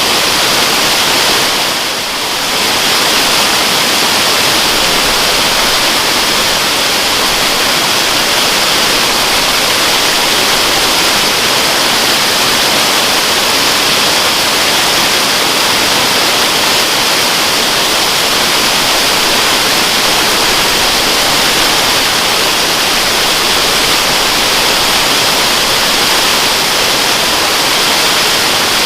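Waterfall: a steady, loud, even rush of falling water, dipping briefly in level about two seconds in.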